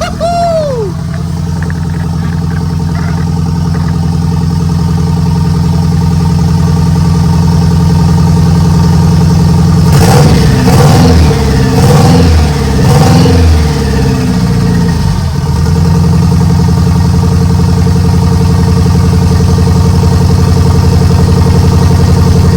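Renault Megane R26 2.0 turbo four-cylinder engine idling steadily after a fresh start, blipped up and down a few times about halfway through. It sounds a bit rough: one injector is unplugged.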